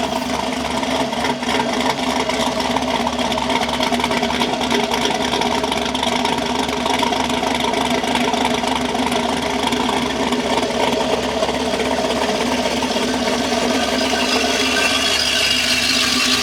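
LS3-based V8 in a 2000 Chevrolet Silverado idling steadily on a base tune, its exhaust running through long-tube headers. A higher hiss comes up near the end.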